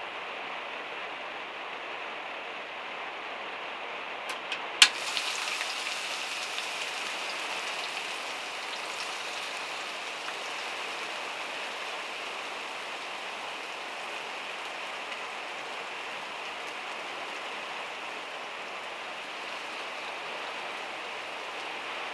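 Rain falling steadily on the van's metal roof, a dense even patter. About five seconds in, two faint ticks and then one sharp knock stand out, and the patter is a little brighter after it.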